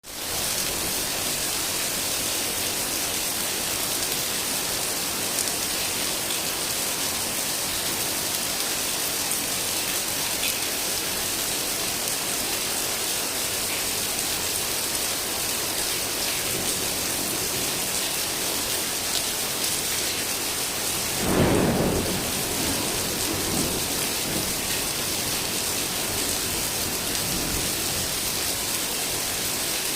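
Heavy rain falling steadily, with a roll of thunder about two-thirds of the way in and fainter rumbles after it.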